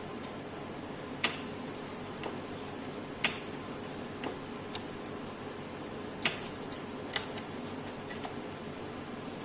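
Scattered sharp clicks and taps from work on a Roche electrolyte analyzer, about eight in all; the loudest, about six seconds in, is followed by a short high beep. A steady low hum runs underneath.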